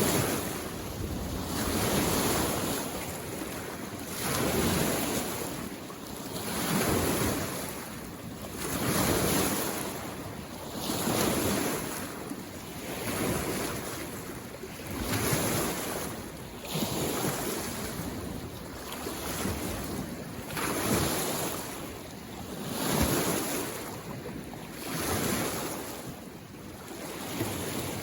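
Small lake waves washing in on the shore, a surge of water about every two seconds.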